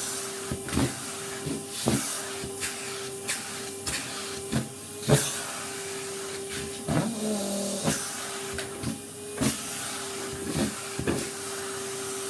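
Vacuum cleaner running with a steady hum and hiss, under irregular sharp knocks and clicks about one and a half a second. The hum briefly drops lower about seven seconds in.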